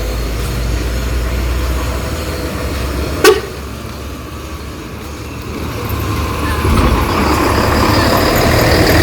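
Road traffic: a motor vehicle rumbles along and another approaches, growing louder over the last few seconds. A single very short, sharp sound about three seconds in is the loudest moment.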